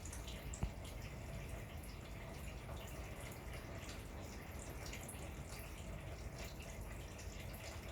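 Wind outdoors at night, a steady low rumble with scattered faint ticks and taps on top.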